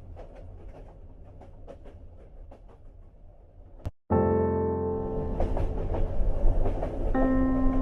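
Train ride ambience, a low rumble with scattered rail clicks, fades out over the first four seconds. A click and a brief dropout follow, then music with sustained chords starts loud.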